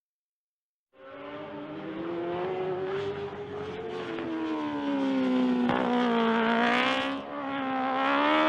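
About a second of silence, then a sport motorcycle engine running at high revs, its pitch sagging and rising again as it gets louder, with a brief drop in level near the end.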